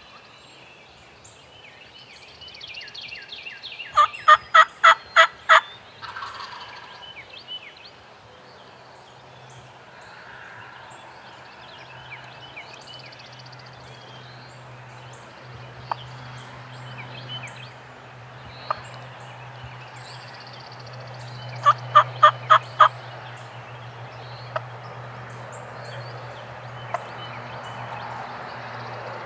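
Turkey yelping: two loud runs of five or six evenly spaced yelps, the first about four seconds in and the second about eighteen seconds later. Small birds chirp faintly and a low steady hum runs underneath.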